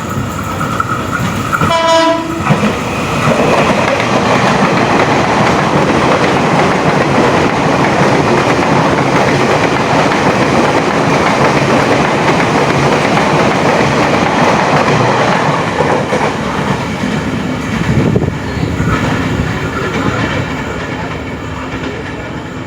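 A train gives one short horn blast about two seconds in, then passes close by: a long, loud rush of wheel and rail noise that slowly dies away over the last few seconds.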